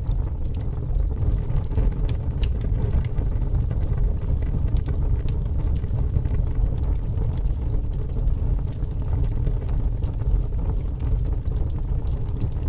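Fire burning with a steady low rumble and frequent sharp, irregular crackles and pops.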